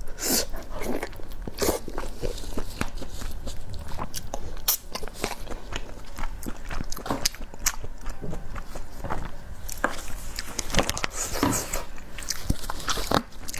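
Close-miked eating: a person biting and chewing food, with a dense, irregular run of sharp, crisp clicks and smacks.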